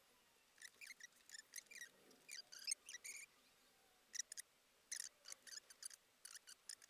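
Faint, irregular small clicks and taps in quick clusters, with a short pause midway, from watchmaker's tools handling the parts of a vintage IWC watch.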